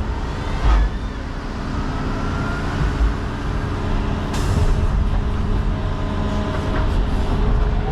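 John Deere 210 excavator's diesel engine running steadily with its hydraulics working, a faint rising whine in the first few seconds. A short sharp noise about four seconds in.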